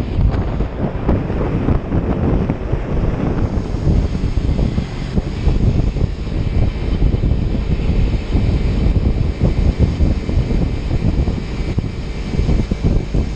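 Kawasaki Ninja 300 parallel-twin engine running, mostly buried under heavy wind buffeting on the microphone, a loud steady rumble that gusts unevenly.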